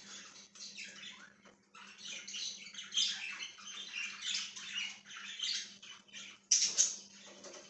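A flock of pet budgerigars (parakeets) chirping and chattering in a rapid stream of short high calls, with a louder burst of calls near the end.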